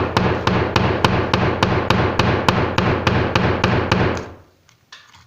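A hammer rapidly and repeatedly striking a mobile phone, about five blows a second, stopping abruptly about four seconds in. A couple of faint knocks follow near the end.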